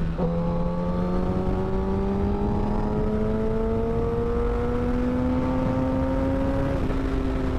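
Kawasaki Ninja ZX-10R inline-four sport bike with an M4 slip-on exhaust, pulling in one gear. Its engine note climbs slowly and steadily as the revs build, with wind rushing on the microphone.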